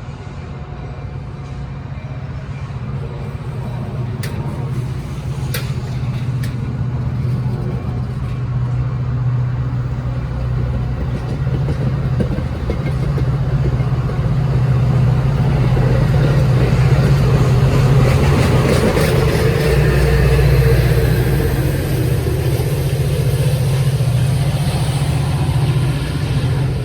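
A train passing close by, its diesel locomotive engine running with a deep drone. It grows louder over the first half and stays loud to near the end.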